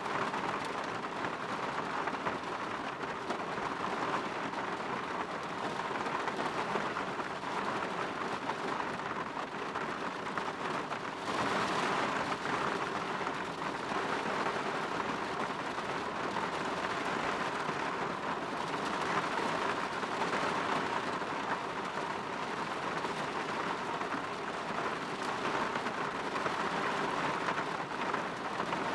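Steady rain falling on window glass, an even hiss with a brief swell in intensity about eleven seconds in.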